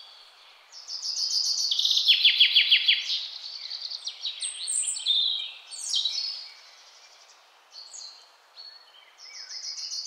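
Several small birds chirping and twittering in high-pitched calls, with quick runs of rapid notes in the first few seconds. The calls thin out in the second half.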